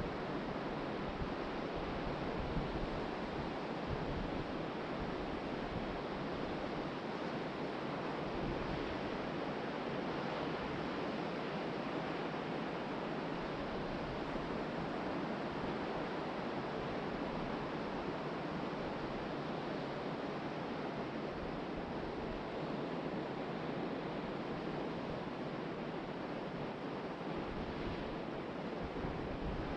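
Ocean surf washing onto the beach: a steady, even rush of breaking waves with no single crash standing out.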